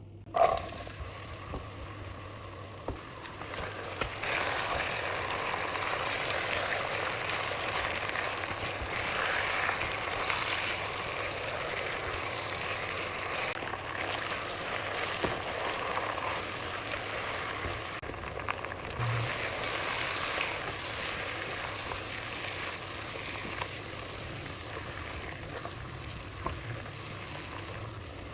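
Food frying in hot oil, a steady crackling sizzle that starts abruptly about half a second in, with a faint low hum underneath.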